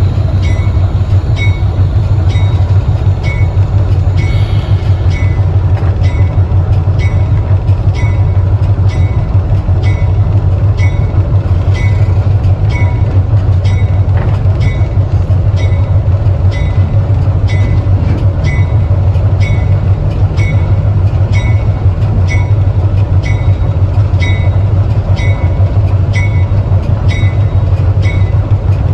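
Passenger train running along the track, heard on board: a steady low rumble with a short, evenly spaced click a little faster than once a second.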